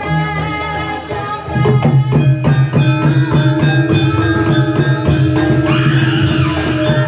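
Live Javanese reog / kuda lumping music: drums beating over held pitched instrument tones. The drumming gets louder about a second and a half in.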